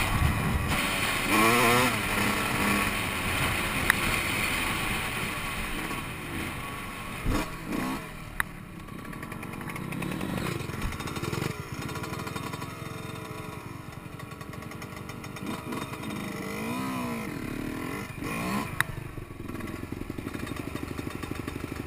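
Yamaha YZ125 two-stroke dirt bike engine revving up and down on the trail, with a few sharp knocks, then settling to an even idle near the end.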